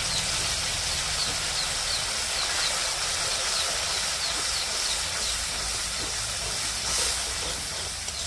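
Spice paste with sour yogurt sizzling and bubbling in a kadai over a gas burner: a steady hiss. A faint high chirping repeats a few times a second through much of it.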